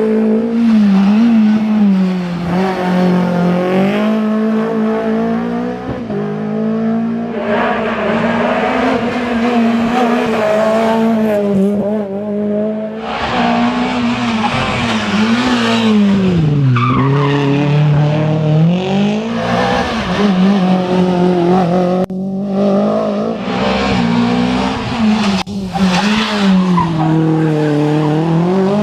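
Renault Clio Williams rally car's 2.0-litre 16-valve four-cylinder engine worked hard at high revs. The pitch holds high, then drops sharply and climbs again several times as the car shifts gears and brakes for corners.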